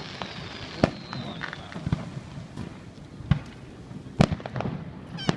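Aerial fireworks going off in a string of about five sharp bangs, the loudest about four seconds in. A faint falling whistle runs through the first second or two.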